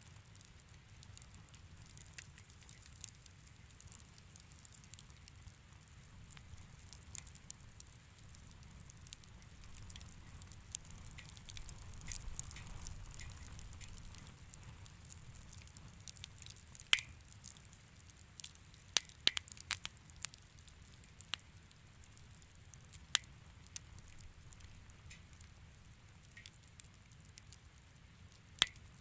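Wood fire in a fireplace crackling: a low steady rumble with a constant fine crackle and scattered sharp pops, several louder pops coming in the second half.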